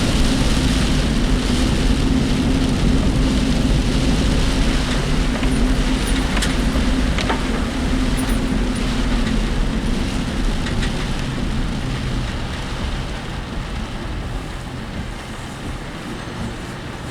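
Cabin noise of a work vehicle driving in typhoon rain: a steady drone of engine and tyres on the wet road, with a few sharp ticks and rattles. The drone eases off and the noise grows quieter in the second half, as if the vehicle is slowing.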